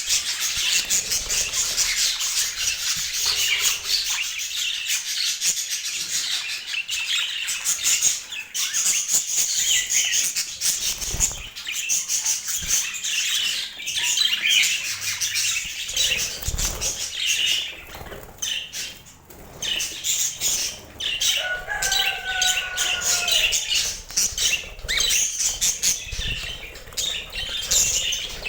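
Budgerigars chattering and chirping continuously in dense, overlapping high-pitched twitters, with a short gliding call a little over two-thirds of the way through.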